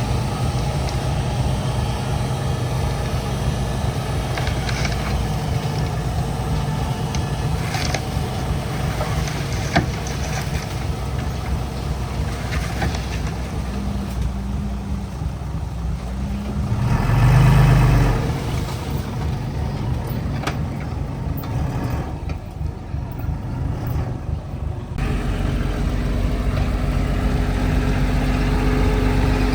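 Diesel engine of heavy earthmoving machinery running steadily, with a brief swell in engine noise about two-thirds of the way through.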